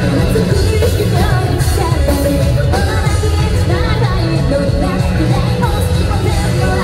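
Live J-rock band playing: a woman sings lead over electric guitar, bass, drums and keyboard, loud and steady, heard from the crowd at a concert.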